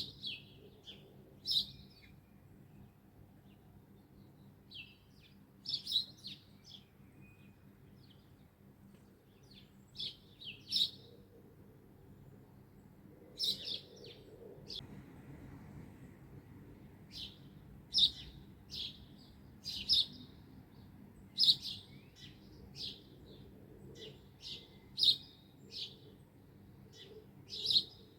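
Songbirds chirping: short, sharp, high chirps repeated every second or so, coming more thickly in the second half, over a faint low background hum.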